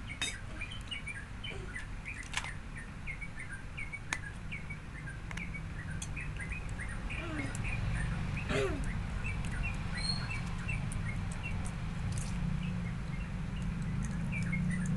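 Small birds chirping over and over in short, quick calls, with a few sharp clicks of small tools on the phone and a steady low hum underneath.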